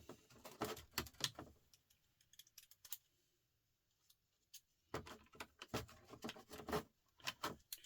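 Light clicks and clinks of small parts and hand tools being handled during electronics disassembly, in two short flurries with a quiet stretch between.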